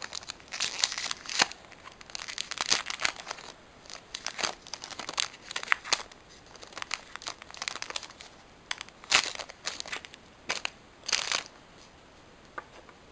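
Foil booster-pack wrapper being torn open and crinkled, in irregular bursts of crackly rustling that stop about a second and a half before the end.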